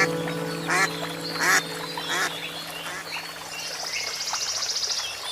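Three short animal calls, about two-thirds of a second apart, over music that fades away, followed near the end by a high, evenly pulsing trill.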